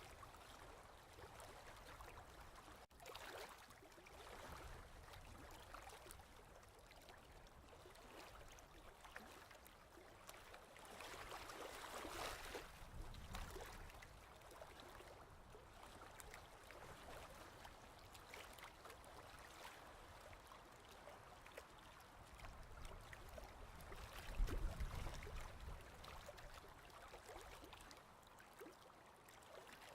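Faint ocean waves washing in a steady hiss, with two louder surges, one around twelve seconds in and one a few seconds before the end.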